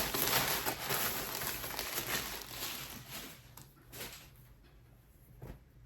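Rustling and crinkling of packaging as a shirt is handled and unwrapped, fading out after about three seconds, followed by a few light taps.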